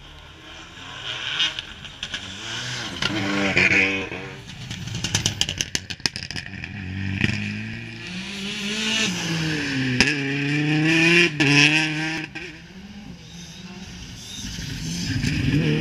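Rally car engines revving hard through the gears as they pass, the pitch climbing and dropping sharply with each shift and lift-off. About five seconds in there is a quick run of sharp cracks.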